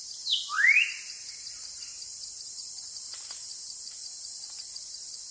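Steady high insect drone with even faint pulsing, and one brief rising whistled bird call about half a second in.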